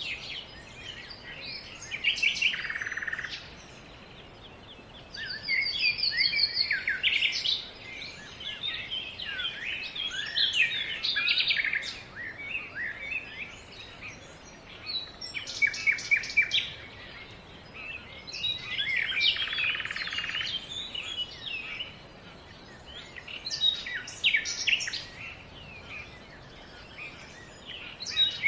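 Songbirds singing: phrases of rapid varied chirps and trills a few seconds long, repeated with short pauses between.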